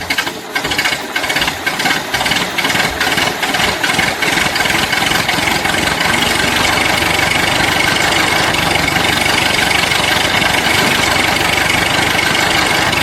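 Engine running, uneven and clattering for the first few seconds, then settling into a steady drone.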